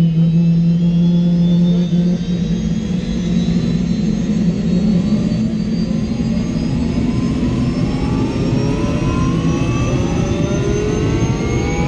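Turbine helicopter engine starting up: a whine climbing steadily in pitch, rising faster in the second half, over a steady low drone as the turbine spools up on the starter toward self-sustaining speed.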